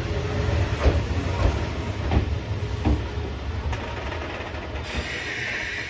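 Kintetsu 26000 series Sakura Liner electric train running slowly into the platform, its wheels clacking over rail joints about every two-thirds of a second as it slows and grows quieter. Near the end a steady hiss of air starts up as the train comes to a stop.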